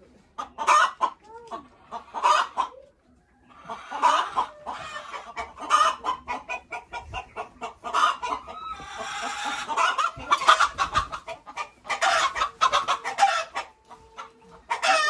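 Hens clucking and squawking in a string of short, repeated calls, with a brief stretch of rustling noise about nine seconds in.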